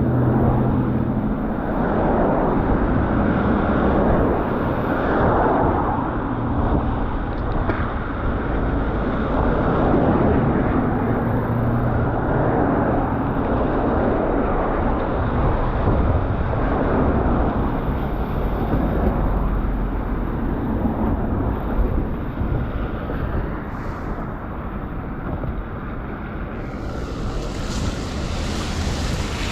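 Wind buffeting the microphone of a moving bicycle rider, a steady rushing noise with a low rumble of road traffic underneath. Near the end a louder, brighter hiss rises.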